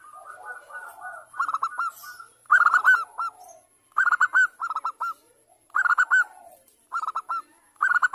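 Zebra dove cooing: short clusters of quick, hooked coo notes, repeated about seven times, each group roughly a second apart.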